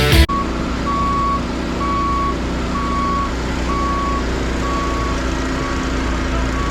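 Construction machine's backup alarm beeping steadily, about once a second, over the steady running of its diesel engine. Music cuts off just as it starts.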